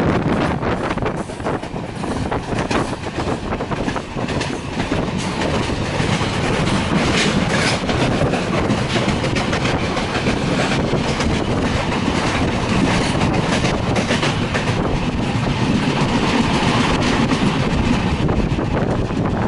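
Rajdhani Express passenger train running on the track: a continuous rumble with the wheels clattering irregularly over the rails.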